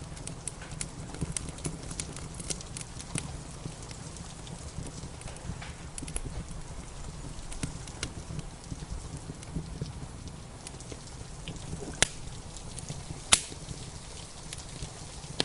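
Wood fire crackling with scattered small snaps and two sharp louder pops near the end, over a steady rumbling hiss of rain.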